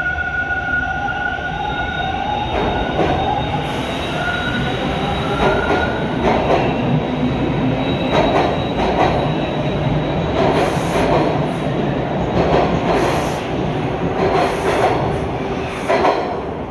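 TTC T1 subway train moving along the platform: steel wheels squealing in thin steady tones early on, then repeated clacks about once a second as the cars roll over rail joints, over the rumble of the train.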